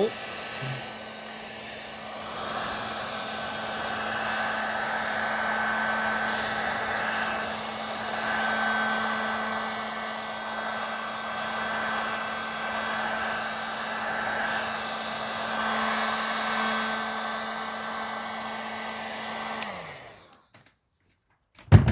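Electric heat gun running steadily, its fan blowing hot air with a constant hum, swelling and easing slightly as it is passed over paint protection film to heal bird-dropping etchings. Near the end it is switched off and the motor winds down to quiet, followed by a brief sharp knock.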